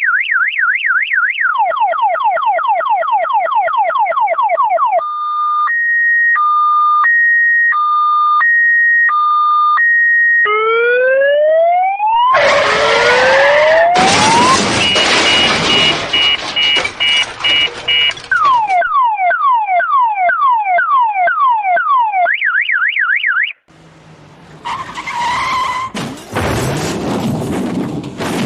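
A toy vehicle's sound chip playing electronic siren effects in turn: a fast warble, a run of falling sweeps, a slow two-tone hi-lo, rising sweeps, a harsh noisy stretch, more falling sweeps and the warble again. It cuts off suddenly about 23 seconds in, and a rougher, noisier sound follows.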